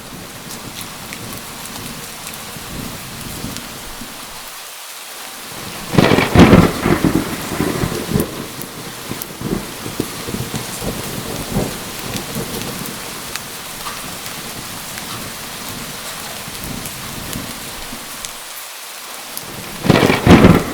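Steady heavy rain with two loud thunderclaps, one about six seconds in and one near the end, each cracking and then rumbling on for a couple of seconds.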